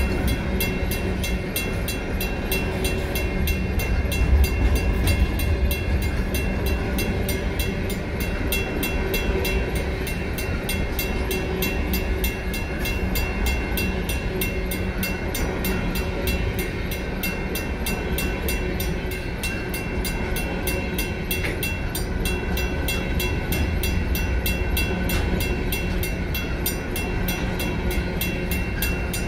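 Freight train of empty rock hopper cars rolling through a grade crossing, wheels rumbling and the cars rattling on the rails. Over it, the crossing signal's WCH mechanical bell rings steadily with fast, evenly spaced strokes.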